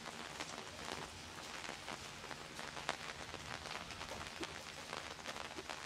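Steady light rain falling on wet pavement, an even hiss dotted with small drop ticks, with one sharper drop about three seconds in.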